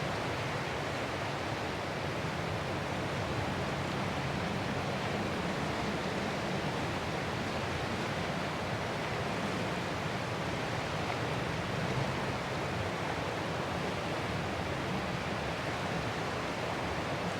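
Ocean surf, a continuous even rushing hiss with no separate wave crashes standing out.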